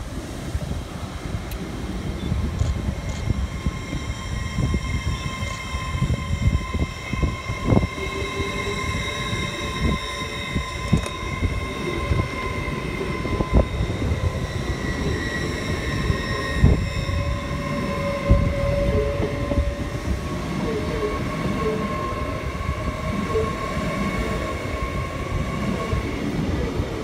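LNER Class 801 Azuma electric train running slowly past, with steady high whining tones over a low rumble and scattered knocks from the wheels on the track.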